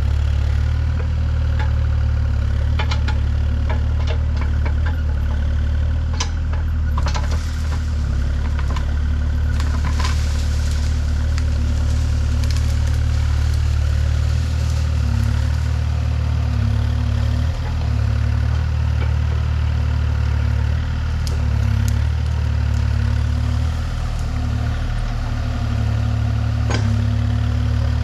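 A large engine running steadily at low speed, with scattered knocks and clatter, most of them in the first third and one near the end.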